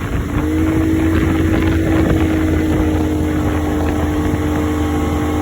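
Motorboat engine running steadily at speed, one held tone over a low hum, with wind rushing over the microphone.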